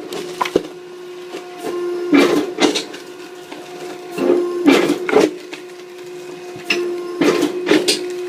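Hydraulic firewood splitter running with a steady hum, with wood cracking and splitting in a burst three times, about every two and a half seconds.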